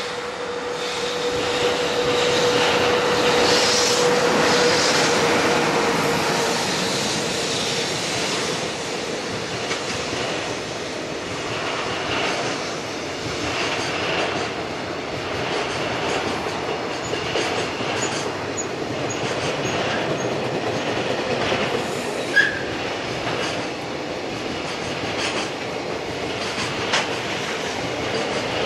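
A JR Freight EH500 electric locomotive passes with a steady tone over the rumble, loudest a few seconds in. A long train of container wagons follows, rolling by with wheels clattering over the rail joints and a sharp click about 22 seconds in.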